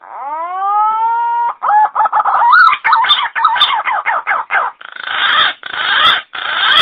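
Pink-necked green pigeon (punai gading) call played as a bird-trapping lure: a rising whistled note for about a second and a half, then a rapid run of warbled notes that grow harsher and raspier toward the end, cutting off abruptly.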